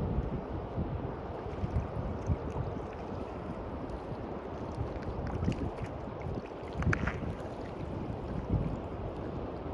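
Waves washing on a beach, with wind buffeting the microphone in uneven gusts. A few brief, faint high sounds come about five and seven seconds in.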